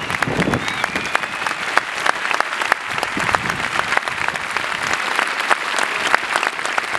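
Audience clapping: dense, steady applause.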